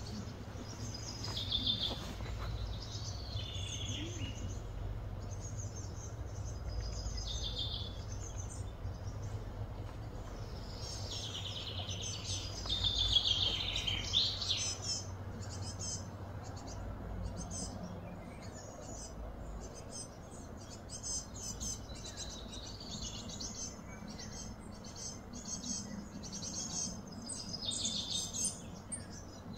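Birds chirping and calling in short, repeated phrases over a low, steady rumble.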